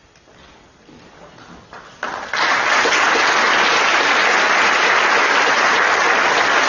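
An audience applauding in a large hall, breaking out suddenly about two seconds in and holding at a steady, loud level.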